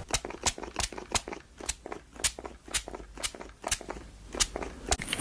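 Close-miked ASMR trigger sounds: a string of sharp, irregular clicks and crunchy crackles, about two or three a second.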